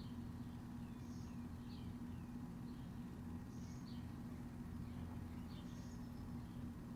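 A small bird chirping every second or two, short high calls, over a steady low hum.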